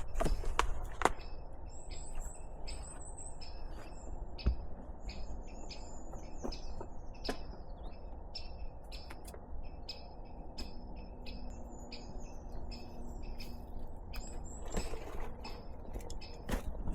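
Birds chirping: a short high chirp repeated about twice a second, with higher twittering notes now and then, over a low steady background noise. A few sharp clicks sound near the start.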